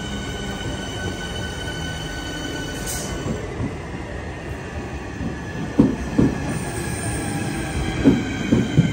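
Southeastern Networker electric multiple unit running along the platform: a steady rolling rumble with a faint electric whine, then from about six seconds in the wheels knock over rail joints in quick clusters as the carriages pass close by.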